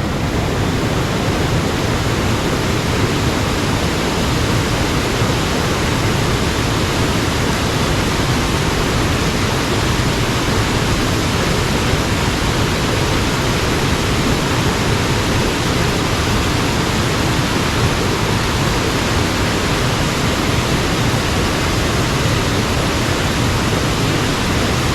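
Steady loud rush of a mountain stream's fast water, an even unbroken hiss.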